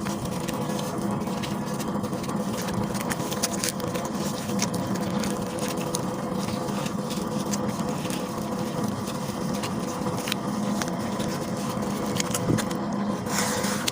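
Thick paste crumbling and breaking apart in a dense run of small crackles and clicks, over a steady low hum.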